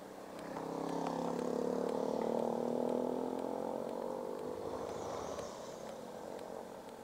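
Motorcycle engine pulling under throttle, its note swelling and rising gently in pitch over a couple of seconds, then easing off.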